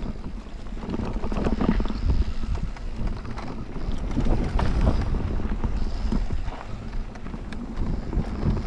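Wind buffeting the microphone while a mountain bike descends a rough trail, with tyre noise and scattered sharp clicks and knocks from the bike rattling over the ground.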